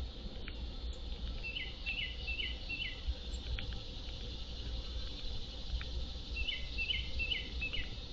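A songbird singing a short phrase of four quick repeated notes, each slurring downward, heard twice about five seconds apart, over a steady low outdoor background with a few faint ticks.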